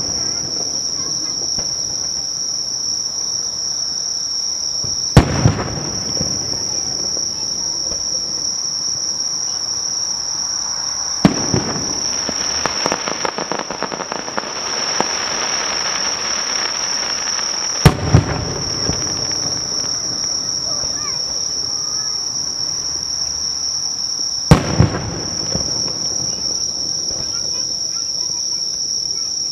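Aerial firework shells bursting close by as four loud booms about six seconds apart. The second is followed by several seconds of dense crackling. Under it runs a steady high-pitched chirring of insects.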